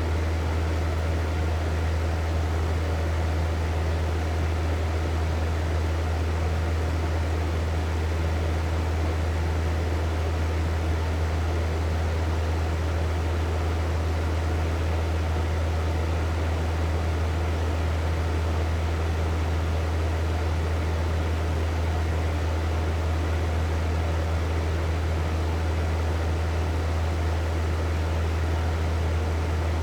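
Hair dryer running continuously: a steady rush of blown air over a low motor hum, with no change in speed.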